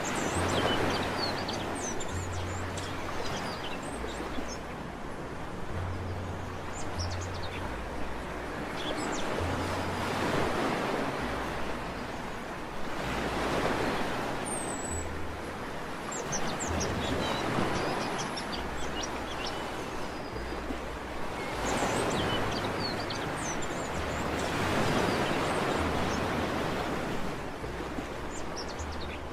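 Sea waves breaking on a beach, the surf swelling and falling back every few seconds, with small birds chirping faintly over it.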